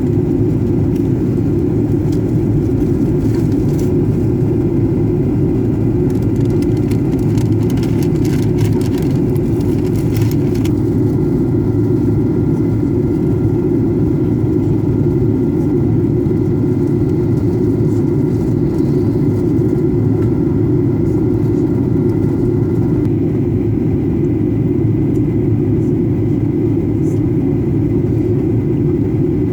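Steady engine and rushing-air noise inside a jet airliner's cabin during its descent, heaviest in the low range, with a few faint clicks between about three and ten seconds in.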